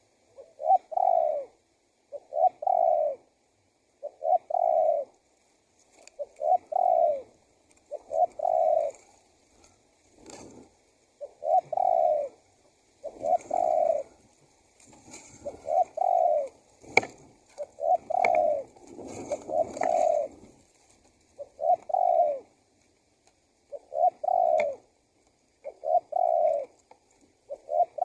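Spotted dove (tekukur) cooing over and over, each call a short note running into a longer one, repeating about every two seconds. It is the cooing used as a lure to draw wild doves in.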